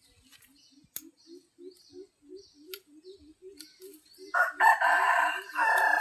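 A rooster crows once, loudly, starting about four seconds in, with a short break near the end of the crow. Underneath, a soft low call repeats about three times a second, with faint high chirps.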